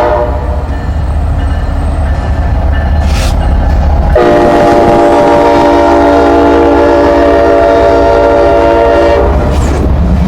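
Diesel freight locomotive's air horn sounding a chord: a short blast ending just after the start, then one long blast of about five seconds from about four seconds in, over the steady low rumble of the passing freight train.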